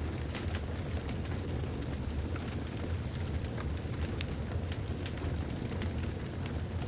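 Wood fire burning in a fireplace: a steady low rumble of flame with scattered crackles and pops, one sharper pop about four seconds in.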